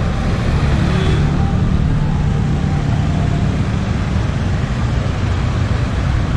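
Street traffic, with vehicle engines running close by as a steady, loud, low-pitched noise.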